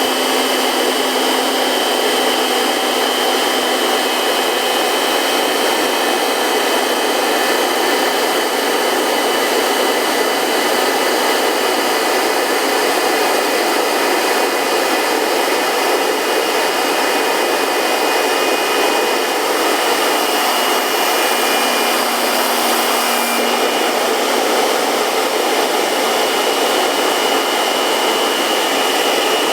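INNTech IT-4014 850-watt electric blower running steadily at full speed: a high motor whine over rushing air. It is blowing into an air mattress to inflate it.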